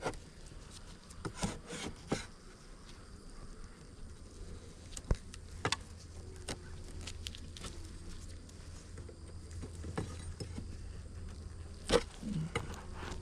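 Honeybees buzzing steadily around an opened hive, with scattered sharp clicks and knocks from hive parts being handled; the loudest knock comes near the end.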